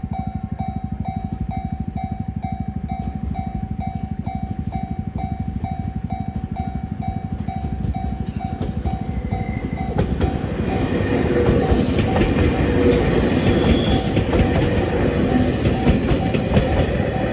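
M250 Super Rail Cargo electric freight train pulling away with a steady low rumble, which about ten seconds in builds into loud wheels-on-rail clatter. Through the first ten seconds a repeating electronic warning tone pulses about twice a second.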